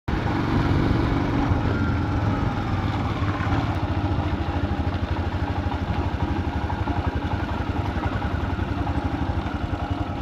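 Royal Enfield Himalayan single-cylinder motorcycle engine idling with an even, rapid pulse.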